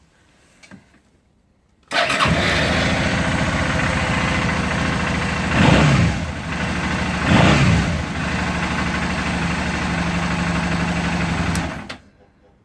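Suzuki DL650A V-Strom's 645 cc V-twin engine started about two seconds in, idling steadily, revved briefly twice with the throttle, then switched off near the end.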